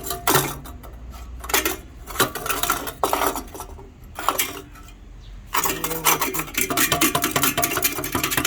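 Loose metal clanking and rattling from a cut-open car muffler whose internal part has split and broken off: a few separate clanks, then a fast continuous rattle from about five and a half seconds in. The broken loose piece inside the muffler is the source of the exhaust rattle.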